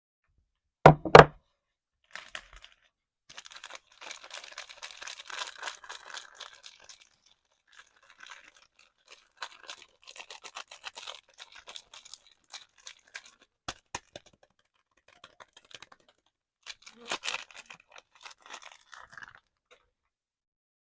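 Soap packaging being unwrapped by hand: a wrapper torn open and crinkled in stretches of crackly rustling, with a few sharp clicks. Two heavy knocks about a second in are the loudest sounds.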